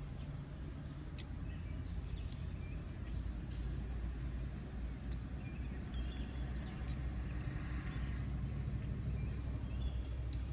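Chewing and small mouth clicks from someone eating a cheese bread bite dipped in marinara, over a steady low rumble and a few faint bird chirps.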